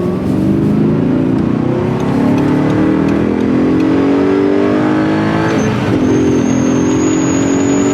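Audi R8's mid-mounted V8 accelerating hard, heard from inside the cabin. The engine note climbs steadily through one gear, dips briefly at a gear change about five and a half seconds in, then climbs again.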